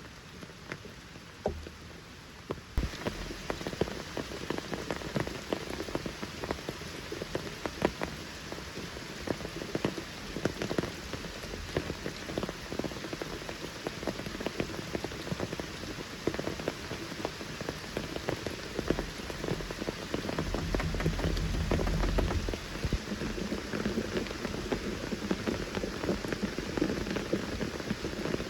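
Rain falling steadily in forest, with many separate drop hits on surfaces. It grows louder about three seconds in, and a low rumble swells briefly around twenty seconds in.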